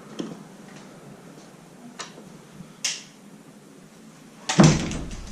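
Quiet room tone with two short soft clicks, then a louder thump and rustle near the end.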